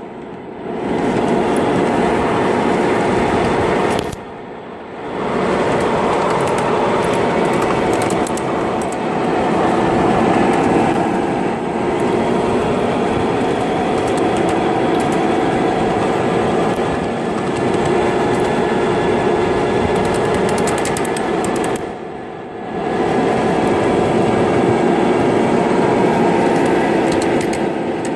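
Miniature Queensland Rail 2100 class locomotive running on the track with a steady engine drone. The sound dips briefly twice, about four seconds in and near twenty-two seconds in.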